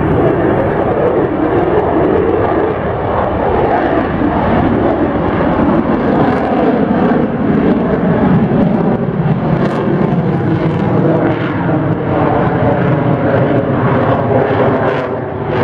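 Loud, steady engine noise of a fixed-wing aircraft in flight.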